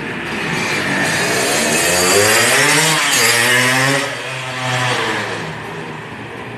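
Yamaha RX-King's two-stroke single-cylinder engine revving through an aftermarket Lobster exhaust with an aluminium silencer. The revs climb for about two seconds, hold briefly, then fall away toward idle near the end.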